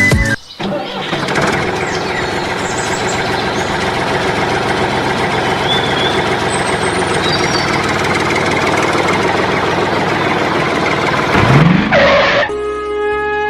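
Steady engine-like running noise, ending with a rising whoosh about twelve seconds in.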